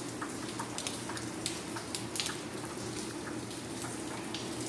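Light rain falling on a wet paved courtyard: a steady hiss with many separate drop ticks scattered irregularly through it.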